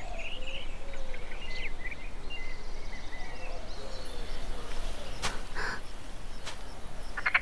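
Birds chirping, with short calls repeating over a steady outdoor background hiss, thinning out after about three seconds; a few faint clicks follow, and a quick rattling call comes at the very end.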